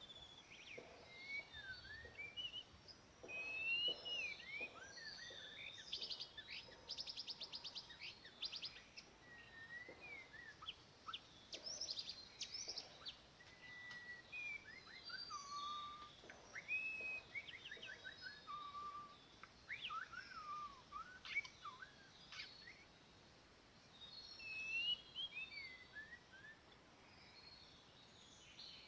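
White-rumped shama (murai batu) song: a run of varied whistled phrases with rising and falling notes. A rapid trill comes a few seconds in, and there is a short pause about two-thirds of the way through.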